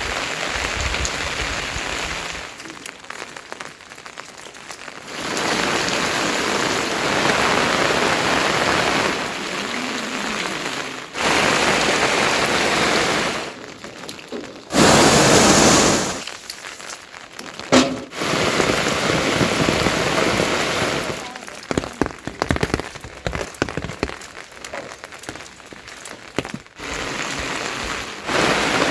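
Heavy rain falling, a steady hiss that drops and jumps in level abruptly several times, loudest for a moment about halfway through.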